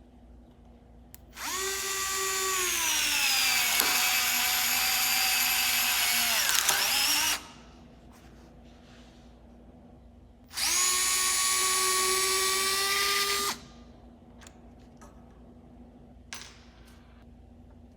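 Small 3.6V cordless electric screwdriver motor running twice: a run of about six seconds whose whine drops in pitch over the first couple of seconds and then holds, and a steadier run of about three seconds. Light clicks come between and after the runs.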